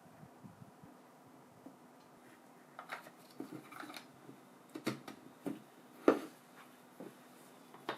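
Handling sounds from the cordless drill's parts being worked on by hand: a scattering of small clicks and light knocks, most of them in the second half, the loudest a little past the middle.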